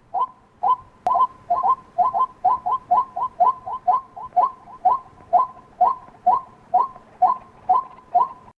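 White-breasted waterhen giving its repeated harsh 'kwak' call in a long series, about two notes a second. The notes quicken to about four a second around two seconds in, then slow back to an even pace.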